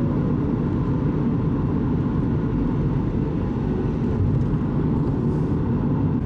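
Car driving, a steady low road and engine rumble heard from inside the cabin.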